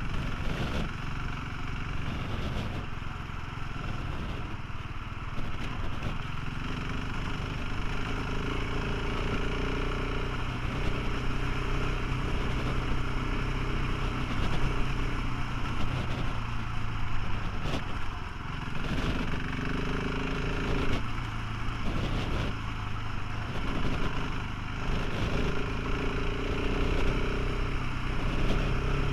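Motorcycle engine running while riding, its pitch rising and dropping every few seconds as the throttle and speed change, over a steady rushing noise.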